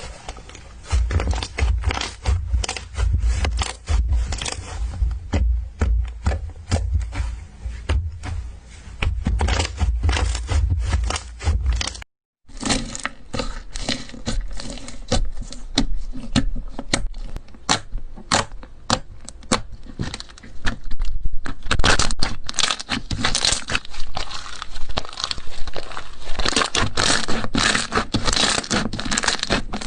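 Slime being squeezed, pressed and stretched by hand, making a dense, irregular run of pops and crackles. About twelve seconds in, the sound cuts out briefly; after that the crackling is denser and brighter.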